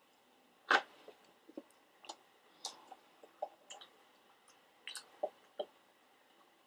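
Close-miked chewing of pretzel-crust pizza: irregular short crunches and wet mouth clicks, the loudest a little under a second in and another cluster about five seconds in.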